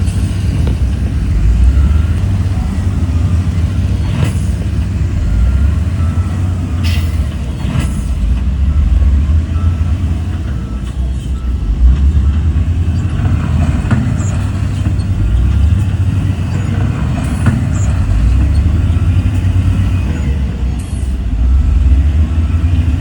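Heavy diesel engine of earthmoving machinery running loud and steady, a deep rumble that swells and eases with load. Short sharp clanks or hisses come about half a dozen times.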